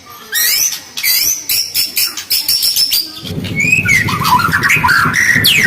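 White-rumped shama singing fast, loud phrases of rising whistled glides and harsh notes. About three seconds in, a low, rapidly pulsing sound joins underneath while the high song goes on.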